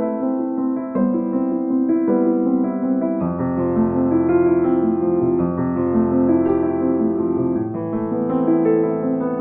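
Background piano music: a steady stream of notes over held chords, with a deeper bass note coming in about three seconds in.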